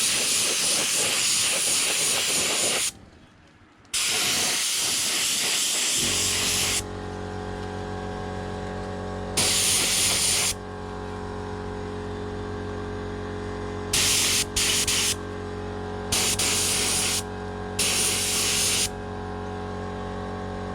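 Black spray paint hissing in bursts as parts are sprayed: two long sprays, then several shorter ones. From about six seconds in, a steady hum runs underneath.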